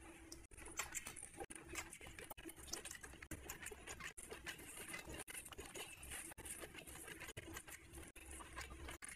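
Close-miked eating sounds: a dense run of small, irregular wet clicks from chewing and mouth smacks, with fingers mixing rice and curry on a plate.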